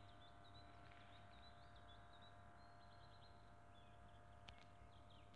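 Faint birdsong: small birds giving short, high chirps in quick runs, with a single soft click about four and a half seconds in.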